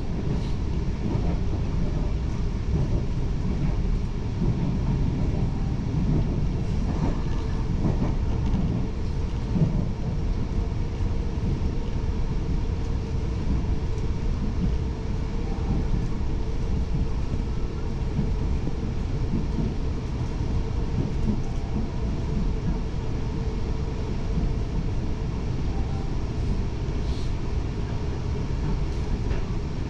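Taiwan Railways commuter train heard from inside the carriage: a steady, low running rumble with a faint constant hum.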